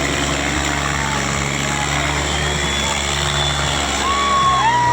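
Diesel tractor engine running steadily. Near the end a drawn-out higher tone rises over it.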